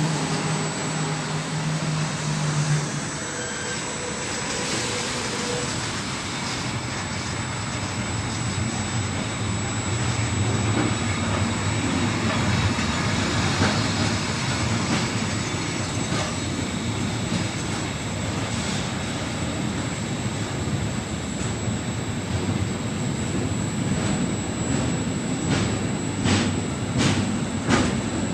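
A train rolling past on the rails with a steady, continuous rumble of wheels and wagons. Near the end come a series of regular sharp clacks as wheels cross rail joints.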